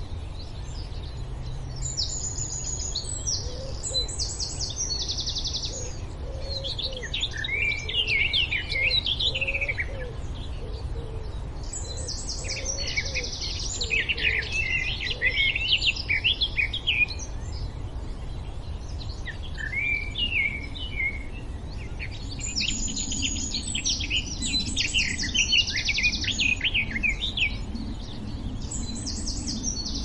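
Birds chirping and singing in bursts of high chirps and buzzy trills that come in three long phrases several seconds apart, over a steady low background noise.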